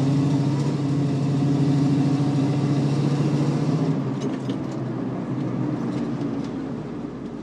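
1967 Ford Mustang's 302 V8 with Flowmaster dual exhaust running while driving, heard from inside the car: a steady engine note for about four seconds, then easing off and getting quieter, with a few light clicks near the end.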